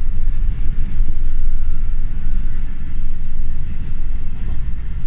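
Old passenger train carriage running on the rails, heard from inside with the windows open: a loud, steady low rumble with the car shaking.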